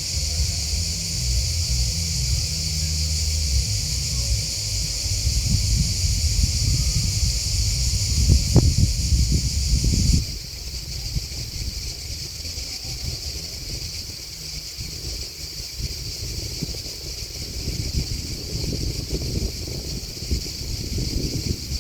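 Grasshoppers and crickets chirping in a steady, high-pitched chorus, with wind buffeting the microphone as a low rumble that drops off abruptly about ten seconds in.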